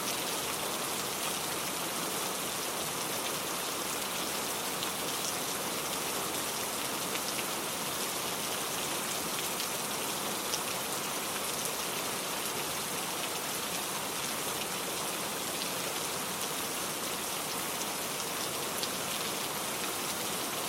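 Steady rainfall: a dense, even hiss of rain with many small drop ticks striking a surface.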